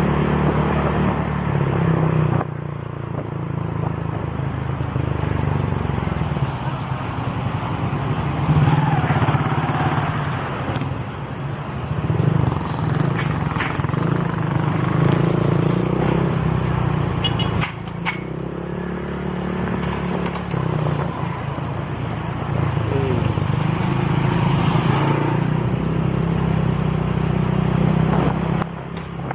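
Honda Click scooter engine running through an aftermarket exhaust pipe while riding along, its note shifting up and down several times as the throttle changes.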